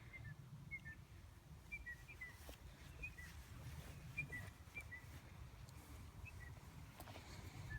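A bird's short, high chirps, mostly in pairs that drop slightly in pitch, repeated every second or so, over a low rumble of wind.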